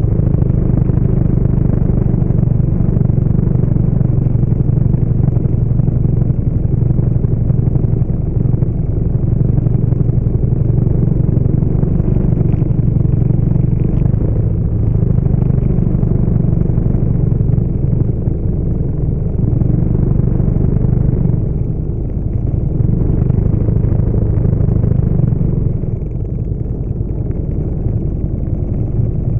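Steady low rumble of a Harley-Davidson V-twin motorcycle engine at low speed, heard from on the bike as it rides in a slow pack of motorcycles. The rumble eases off for short moments a few times near the end.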